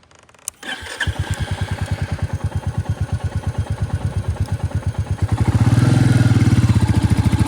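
Royal Enfield Bullet's single-cylinder engine starting: a click, then the engine catches about half a second in and settles into a rapid, even thump. About five seconds in it is opened up and runs louder.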